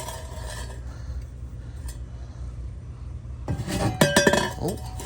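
Steel exhaust pipe sections clanking and clinking against each other several times in a quick cluster, with brief metallic ringing, about three and a half seconds in, over a steady low hum.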